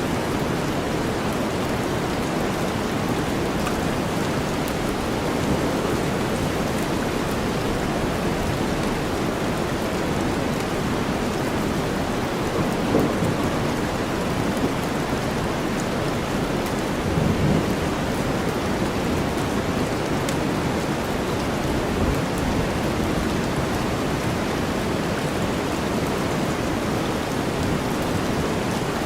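Steady rainstorm mixed with deep white noise, a continuous even hiss weighted toward the low end, with a couple of brief low swells partway through.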